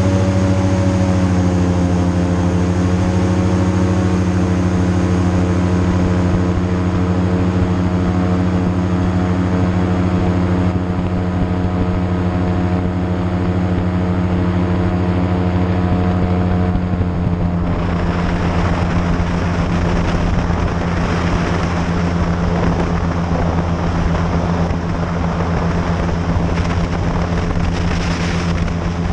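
Airboat engine and air propeller running steadily at speed, a loud even drone. A little past halfway the smooth drone gives way to a rougher rushing noise over the same low hum.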